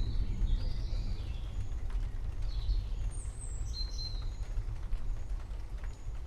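Songbirds chirping and trilling in a forest, several short high calls in the first few seconds, over a steady low rumble.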